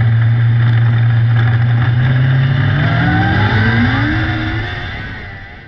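600cc micro sprint car engine running at a steady pitch, then revving up with a smoothly rising pitch as it fades away.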